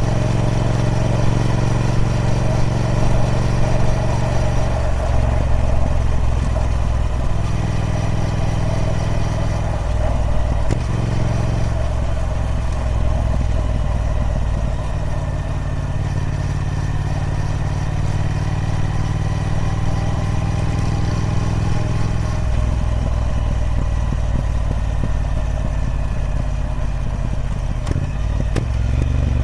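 Triumph Speed Twin 1200's 1200 cc parallel-twin engine on its stock exhaust, running steadily. Its note steps between engine speeds several times.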